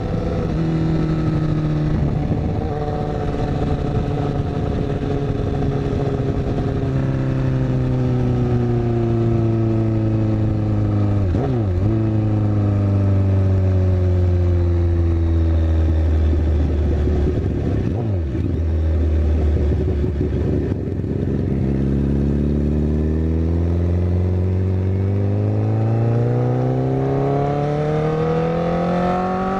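Honda CBR1000RR Fireblade's inline-four with a Yoshimura exhaust, cruising on the highway, heard through wind noise on a helmet camera. The engine note sinks slowly for about twenty seconds as the bike eases off, then rises steadily through the last several seconds as it accelerates. Two short sweeping sounds, like vehicles going past, come about 12 and 18 seconds in.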